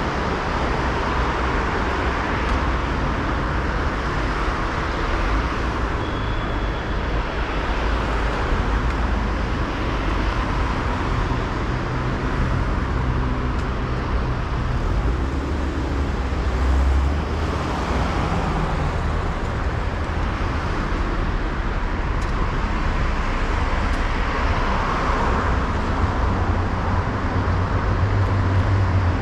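Busy city-street traffic: a steady wash of passing cars with low engine rumble, a heavier engine hum rising near the end.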